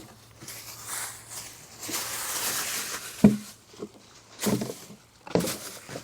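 A person moving about and getting down to look under a vehicle: rustling and scuffing, one sharp knock about three seconds in, then short scuffs about once a second.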